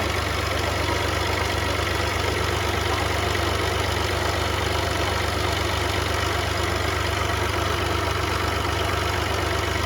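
An engine idling steadily, with a fast, even low pulse and no change in speed.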